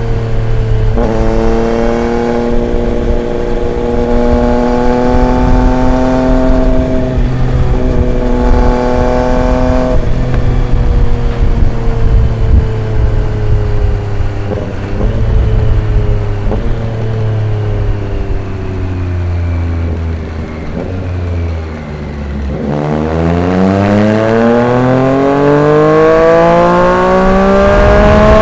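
Triumph Street Triple 765 RX's three-cylinder engine through an SC Project S1 exhaust, riding under throttle with brief gear changes about a second in and around ten seconds in. The pitch then falls slowly as the bike slows, and near twenty-two seconds it accelerates hard, the pitch climbing steadily to the end.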